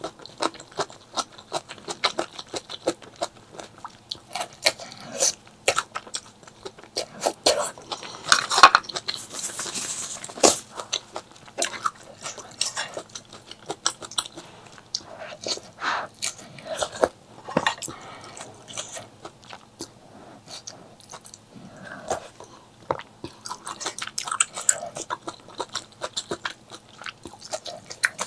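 Close-miked eating: chewing and biting with irregular wet clicks and crunches. A brief hissing burst comes about ten seconds in.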